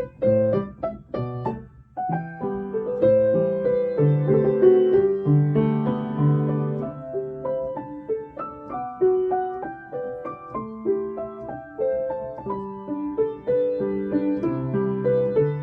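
Solo piano playing a slow, gentle melody over sustained chords, with a brief pause about two seconds in.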